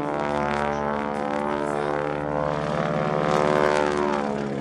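Boeing Stearman biplane's radial engine and propeller droning as the plane flies overhead, with a sweep in tone about three seconds in as it passes.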